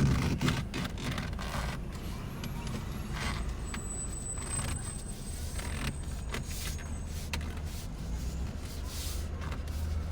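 Handling noise of a snug steering wheel cover being stretched and pushed onto the wheel: repeated rubbing, rustling and light knocks, the loudest knock right at the start, over a steady low rumble.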